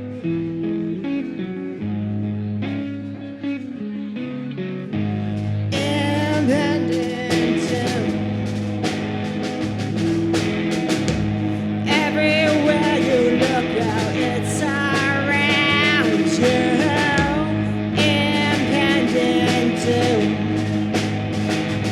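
Live rock band playing the intro of a song, recorded straight from the mixing desk. Guitar plays alone at first, then the full band with drums comes in about six seconds in, with a wavering lead line over it.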